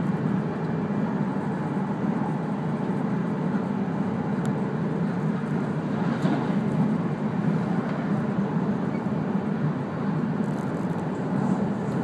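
Steady running noise inside the passenger car of an E3-series Akita Shinkansen Komachi train, a low rumble of wheels on rail. About six seconds in, there is a brief rush as another train passes close alongside.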